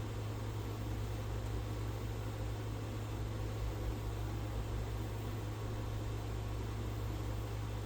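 1996 Sanitaire S663 upright vacuum cleaner running steadily: a constant low motor hum under an even rush of air.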